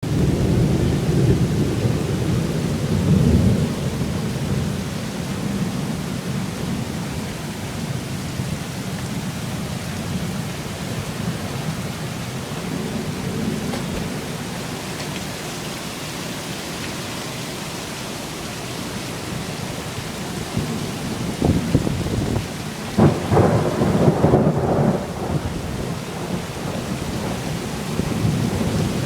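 Heavy rain pouring steadily in a severe thunderstorm, with thunder rumbling low in the first few seconds and a louder burst of cracking thunder from about 22 to 26 seconds in.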